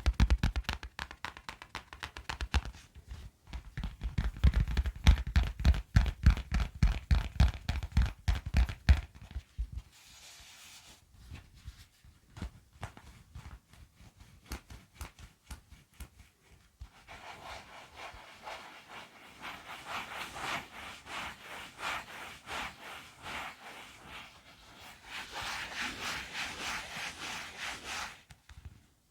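ASMR tapping and scratching on an object. It opens with rapid strokes over low thuds for about nine seconds, then softer scattered taps. From about seventeen seconds in, a fast, even scratching takes over.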